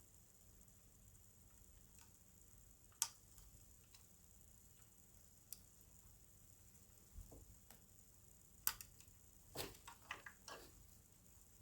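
Faint, scattered clicks and light taps of small plastic model parts and thin tubes being handled and pushed into place, with a short cluster of soft knocks near the end.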